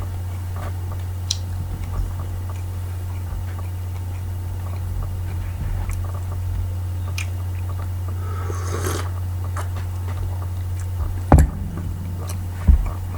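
A person eating breakfast: faint chewing and small clicks over a steady low hum, with a short rustling noise about nine seconds in and two sharp knocks near the end.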